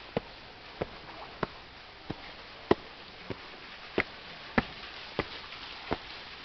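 Footsteps on a hard path, about ten even steps at a steady walking pace, over a faint steady hiss.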